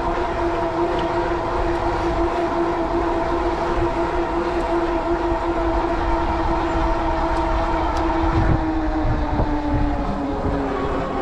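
Steady whine from the e-bike's 750 W Bafang geared rear hub motor under power, its pitch sliding a little lower from about nine seconds in as the bike slows. Under it, strong wind rumbles on the microphone.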